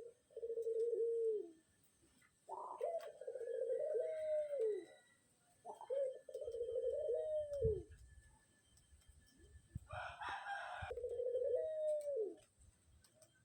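A dove cooing: four drawn-out, rolling coos about three seconds apart, each ending in a falling note.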